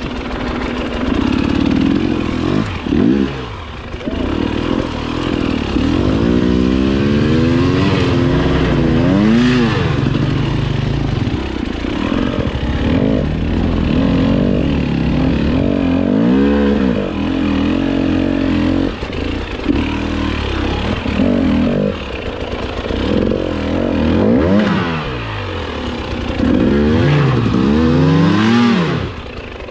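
Enduro dirt bike engine revving up and down again and again, its pitch rising and falling with each throttle change.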